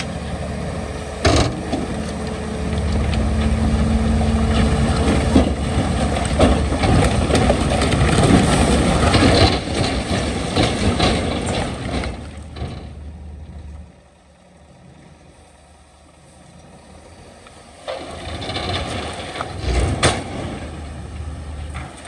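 Heavy diesel earthmoving machinery working: engine running hard with scattered knocks and clatter, as of rock being pushed or dumped. The sound dies down about two-thirds of the way through, then swells again briefly with a sharp knock.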